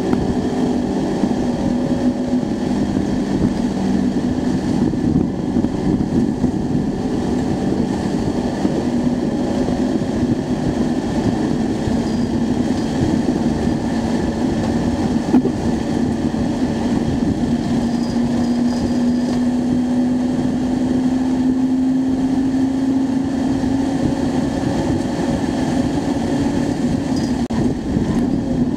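Acura Integra Type R's four-cylinder engine running hard at high revs, heard from inside the cabin over road noise. Its pitch shifts early on and later climbs steadily for several seconds as the car accelerates.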